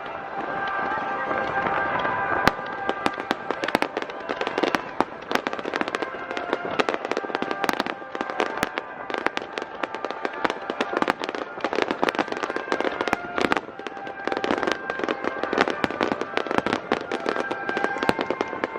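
Aerial fireworks crackling and popping in a dense, rapid run of sharp cracks, with music playing underneath.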